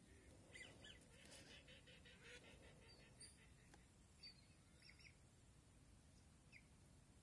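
Faint bird calls: short high chirps and whistles here and there, with a quick run of rapid pulses about a second in that lasts about a second.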